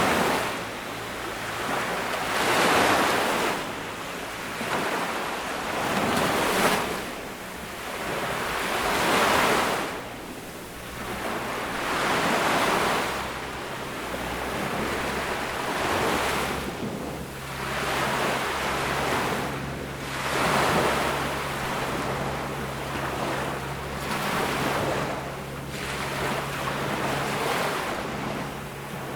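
Ocean waves breaking on a tropical beach, rushing in and washing back in a swell about every three seconds. A faint steady low hum joins about halfway through.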